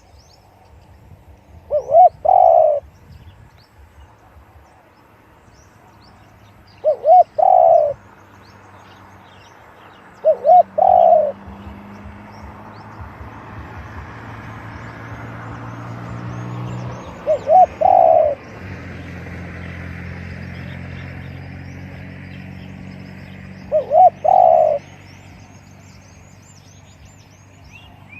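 Spotted dove cooing: five phrases a few seconds apart, each a quick note or two then a longer coo. Small birds chirp faintly in the background, and a low motor hum rises and fades in the middle.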